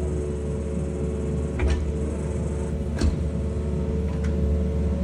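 Excavator diesel engine running steadily, with two short knocks about one and a half and three seconds in.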